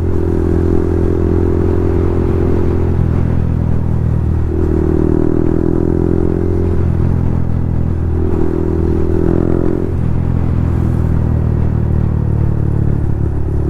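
Yamaha MT-15's single-cylinder engine running through a loud aftermarket Akrapovic full-system exhaust while being ridden, the exhaust note steady with its upper tone fading and returning every couple of seconds as the throttle changes.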